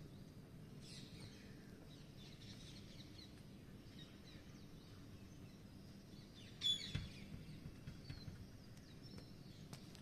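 Faint, short, high bird chirps scattered over a low steady background hum, with a louder quick cluster of chirps about two-thirds of the way through.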